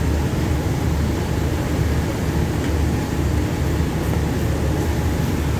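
Steady low rumble from a diesel passenger train standing at the platform, with no clear change in pitch.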